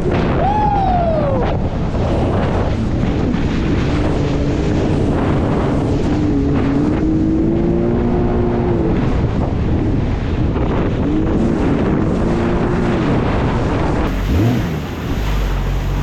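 Jet ski engine running on open water, its pitch rising and falling with the throttle, under heavy wind noise on the microphone and water rushing past. The sound changes abruptly near the end.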